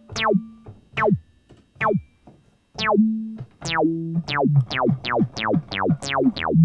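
Fender Rhodes electric piano played through an Electro-Harmonix Bass Mono Synth pedal on its acid setting: synth bass notes, each opening with a sharp downward filter sweep. A few notes are spaced about a second apart, then a quicker run of notes starts about three and a half seconds in.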